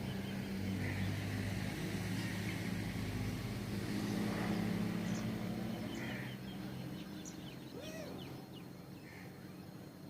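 Steady low engine hum of a motor vehicle that fades away over the last few seconds. Short bird chirps and one brief call come through near the end.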